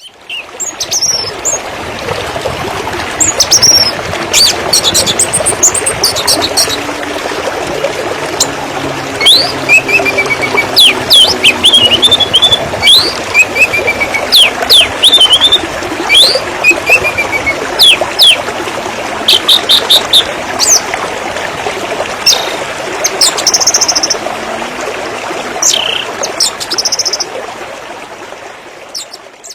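Running water splashing and trickling steadily, with birds chirping and trilling over it throughout in many short, high calls.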